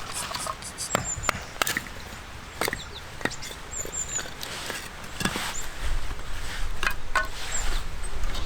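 Firewood being chopped or split: irregular sharp wooden knocks and cracks, about a dozen spread unevenly.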